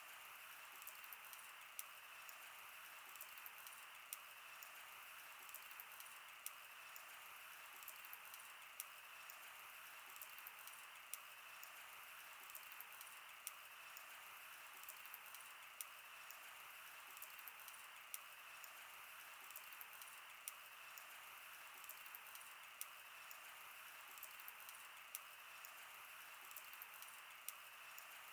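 Wood bonfire crackling, with sharp, irregular pops and snaps over a steady hiss.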